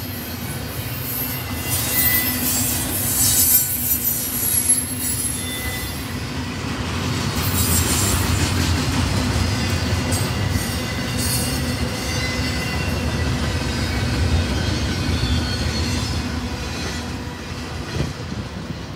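Double-stack intermodal freight train rolling past: steel wheels rumbling on the rails, with high-pitched wheel squeal coming and going. The sound eases off near the end as the last cars go by.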